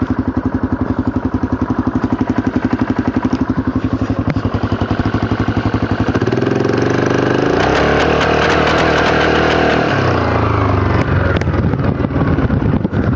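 Yamaha Grizzly 660 ATV's single-cylinder four-stroke engine idling with a steady pulse, revved up about six seconds in and held for a few seconds, then dropping back to idle. It is making a noise that the owner calls bad.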